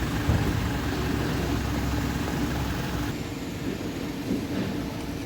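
Steady low engine-like hum of machinery running, which drops and changes abruptly about three seconds in.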